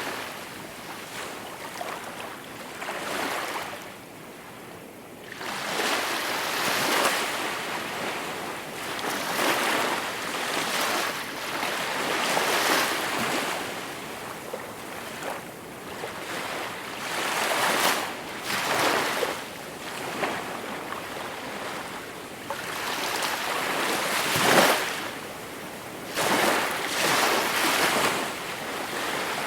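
Gentle sea waves washing onto the shore, swelling and fading every one to three seconds, with one sharper wave break about 24 seconds in.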